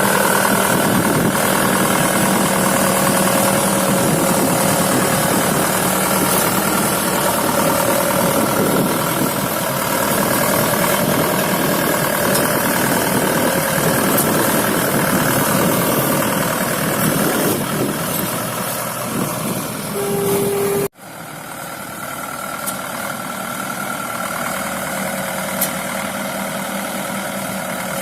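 Engine of farm machinery running steadily. The sound cuts off abruptly about 21 seconds in and resumes at once, a little quieter.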